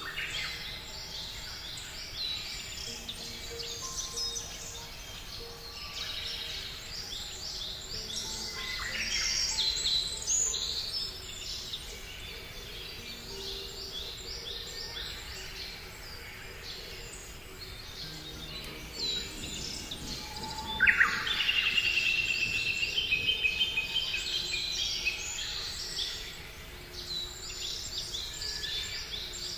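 Many small birds chirping and singing at once in a dense chorus. About two-thirds of the way through, one louder bird call of quickly repeated notes stands out.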